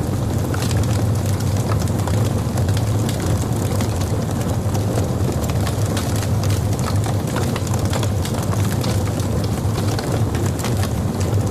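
Logs burning in a fireplace: a steady low rumble from the fire with many small crackles and pops scattered throughout.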